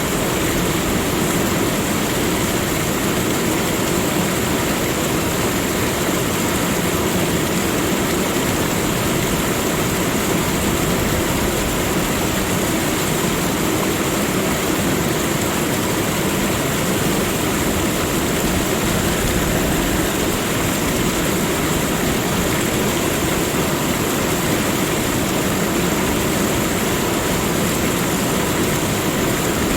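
Steady, even rushing of water with a constant high hiss, unchanging throughout.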